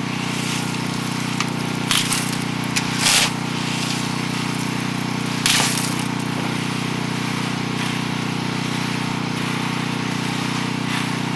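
A steady, low machine hum, with three short, sharp scraping or splashing noises about two, three and five and a half seconds in.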